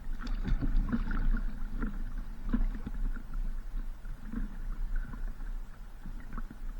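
Paddle strokes and water splashing and lapping against a paddleboard, with irregular low knocks over a steady low hum.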